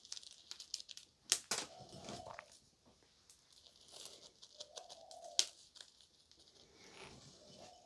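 Crisp crackling and scraping of crushed chocolate biscuit crumbs being worked onto a buttercream cake, with a few sharp clicks, two of them about a second and a half in and one about five seconds in.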